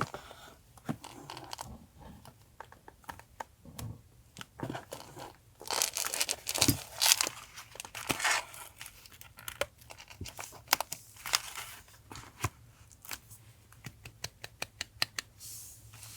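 Paper being handled for a collage journal: crinkling, rustling and tearing, with many small taps and clicks and a louder stretch of rustling a little past the middle. A faint steady hum from a nearby refrigerator runs underneath.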